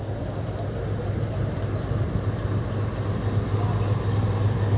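WDG6G diesel-electric locomotive's engine running with a steady low drone that grows slightly louder.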